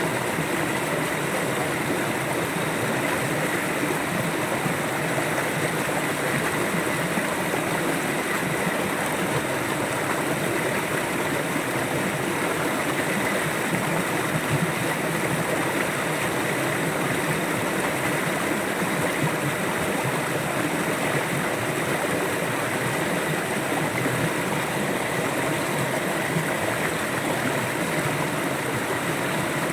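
River water flowing steadily, an even, unbroken rush and gurgle of water.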